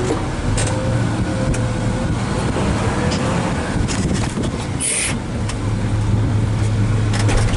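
Diesel engine of a Cat 980M wheel loader running under load as the machine maneuvers, its low hum swelling twice, with a short hiss about five seconds in.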